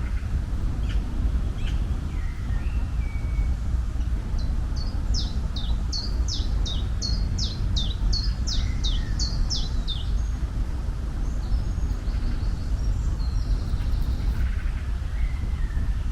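Bird song over a steady low rumble: one bird repeats a quick falling chirp about twice a second for some five seconds in the middle, with a few scattered calls around it.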